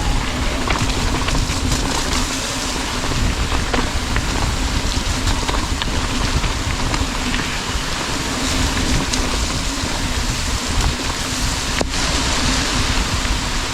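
Mountain bike being ridden, heard from the rider's GoPro: a steady rush of wind on the microphone and tyre noise on the trail, with low buffeting and scattered small rattles and clicks from the bike.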